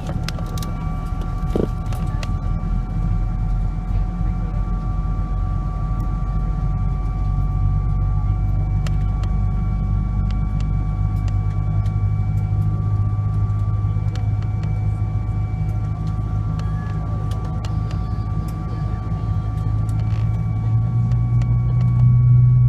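Steady low rumble and hum inside a Boeing 777-200ER passenger cabin, with a few faint clicks; the rumble grows louder near the end.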